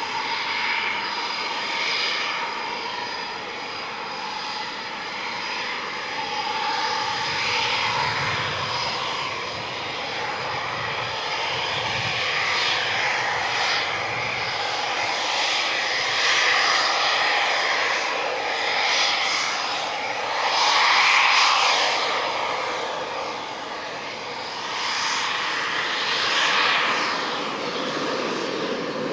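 Eurofighter Typhoon's twin EJ200 jet engines running: a continuous rushing noise with a steady high whine, swelling and fading in waves and loudest about two-thirds of the way through.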